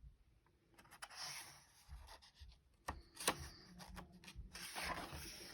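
Pages of a picture book being turned: faint paper rustling with a few light taps.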